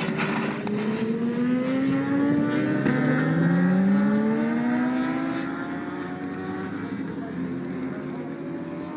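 Racing motorcycle engines at high revs, several bikes accelerating one after another with their pitch rising, then fading away from about five seconds in.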